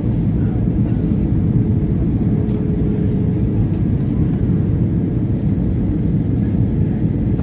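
Steady deep rumble of engine and airflow noise inside an Airbus A320 passenger cabin, heard from a window seat.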